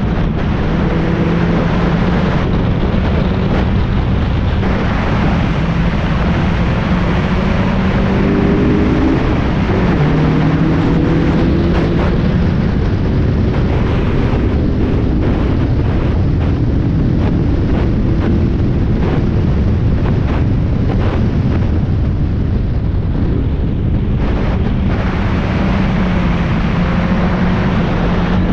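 Spec Miata race car's four-cylinder engine at speed, heard onboard, its revs climbing and dropping again and again through gear changes and braking. Heavy wind and road noise run underneath.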